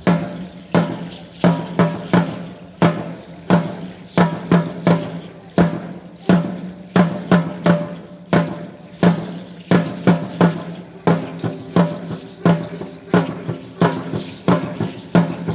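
Drumming for an Aztec Chichimeca dance: a deep-toned drum beaten in a quick, steady, repeating rhythm of hard strokes.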